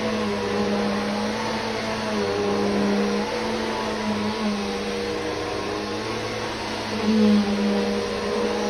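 Vacuum cleaner motor running steadily with an even hiss of airflow. Its hum shifts slightly in pitch as it works, and it briefly gets louder about seven seconds in.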